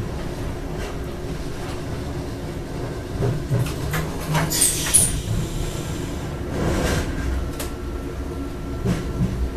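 Electric passenger train drawing into its terminus station: a steady low rumble with knocks of the wheels over rail joints and points. About halfway through comes a brief high squeal from the wheels or brakes.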